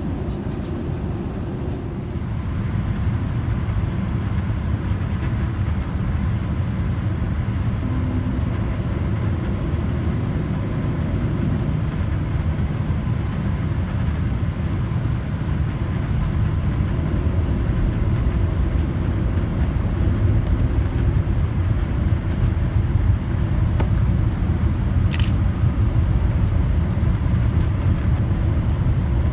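Steady low rumble of a Boeing 787-9's engines and rushing air, heard inside the cabin as the airliner descends on approach to landing. It grows slightly louder about halfway through, with one brief sharp click near the end.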